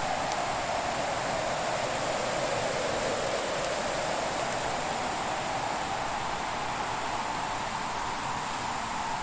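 Fireplace ambience: a steady rushing noise with a few faint, sparse crackling ticks from the fire.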